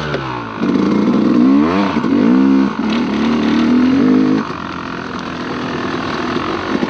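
Dirt bike engine revving under changing throttle. Its pitch swings down and back up several times, and it runs loud until about four seconds in, then settles to quieter, steadier running.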